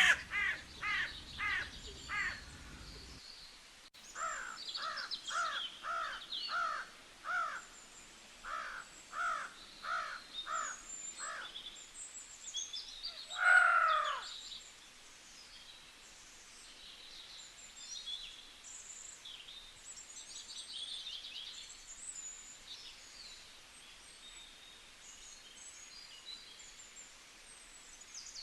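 Birds calling: one bird gives runs of short, falling calls, about two a second, and one longer, louder call about fourteen seconds in. Smaller birds chirp high and thin throughout.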